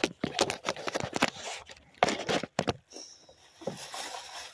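A quick run of sharp, irregular knocks and clicks, like things being handled. About three seconds in it gives way to a softer rustling hiss.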